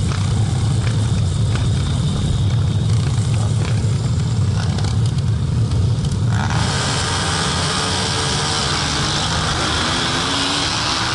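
Pit bike engines running at the motocross start line, a loud low rumble with light clicks. About six and a half seconds in it switches abruptly to riding on the track: an engine revving up in rising sweeps under heavy wind rush on the helmet camera.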